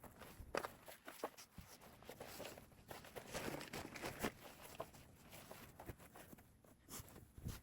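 Quiet handling sounds: soft rustling with scattered light taps and clicks, a little busier around the middle.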